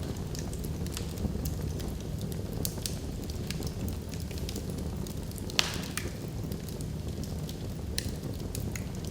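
Wood fire burning in a fireplace: a steady low rumble of flames with frequent small crackles and snaps from the logs, and one louder pop with a brief hiss about five and a half seconds in.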